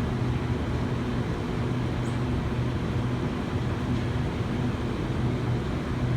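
Steady low hum with a constant rushing noise: railway station and train machinery running.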